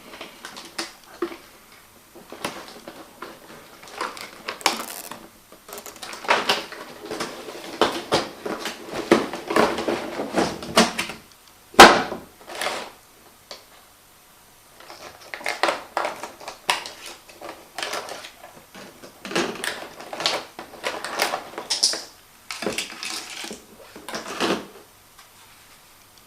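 Handling noises as a toy quadcopter and its box and parts are unpacked: irregular clicks, knocks and rustling, with one sharp knock about twelve seconds in.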